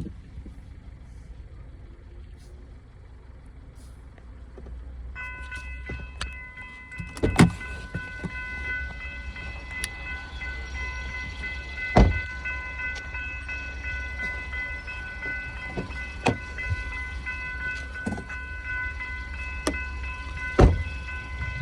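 Railroad grade-crossing warning bell starts ringing about five seconds in and keeps going, over the low rumble of diesel locomotives. Four loud knocks come at roughly four-second intervals.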